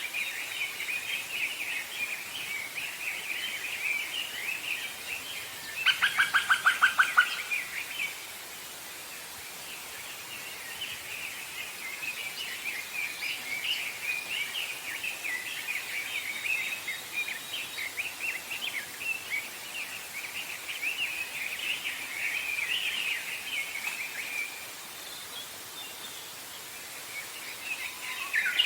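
Many small birds chirping and singing together, with one louder rapid trill of about a dozen quick notes around six seconds in.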